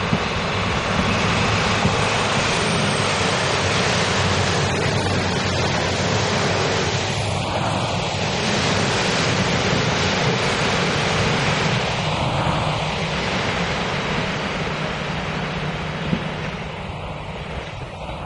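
Passenger trains running through the station: a steady rush of wheel and rail noise with a low hum underneath, mixed with wind on the microphone.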